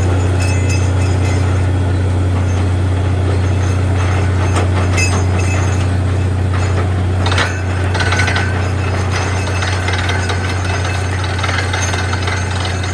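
Borewell drilling rig running steadily, with a deep engine drone and metallic clinking and rattling. The level dips slightly about seven seconds in.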